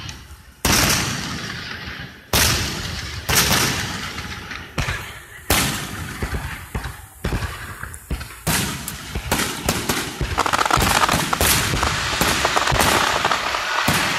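Aerial fireworks shells bursting: separate loud booms about a second apart, each with a fading rumble. From about ten seconds in they build into a rapid barrage of bangs with continuous crackling.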